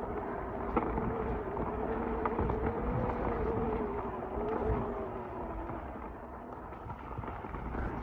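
Mountain bike riding along a wet dirt singletrack: rolling tyre and drivetrain noise with scattered knocks and rattles from the trail, and a hum that wavers up and down in pitch.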